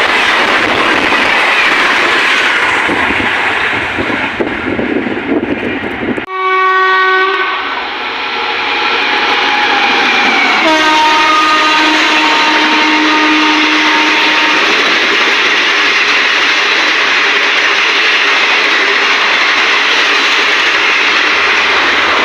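Express trains passing at high speed. First the loud steady rush and clatter of a train's coaches, which breaks off abruptly about six seconds in; then a locomotive horn blows a long blast that drops in pitch about ten seconds in as the engine passes, and sounds on for a few seconds more before the steady rush of its coaches takes over.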